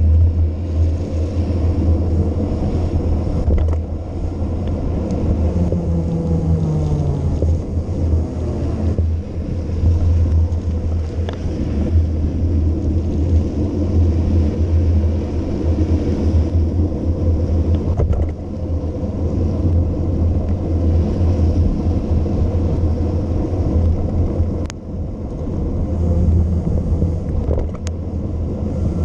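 Heavy wind buffeting on the camera microphone during a fast bicycle descent: a loud, steady low rumble that surges and dips, with a couple of sharp clicks near the end.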